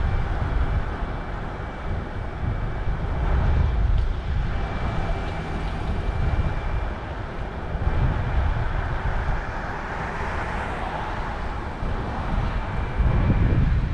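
Wind rumbling on the microphone of a camera riding along on a moving bicycle, over the steady noise of city street traffic.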